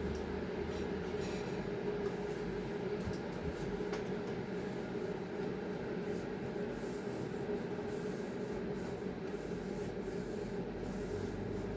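Steady mechanical hum, constant in pitch and level.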